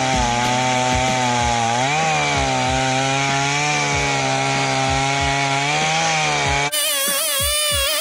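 Two-stroke chainsaw running steadily under load, its pitch rising briefly about two seconds in. It cuts off abruptly near the end, where music takes over.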